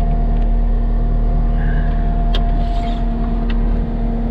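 Skid steer's diesel engine running steadily with a constant hum and low rumble, with a couple of faint clicks partway through.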